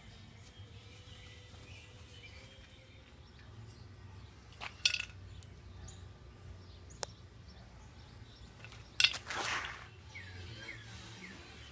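Metal clanks from the battery-box work over a steady low hum, with faint bird chirps: one sharp clank about five seconds in, a short click about seven seconds in, and a louder clank about nine seconds in.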